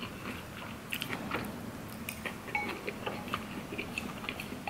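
Close-up eating sounds: chewing of spicy ramen and chewy rice cakes (rabokki), with many small irregular wet clicks and smacks.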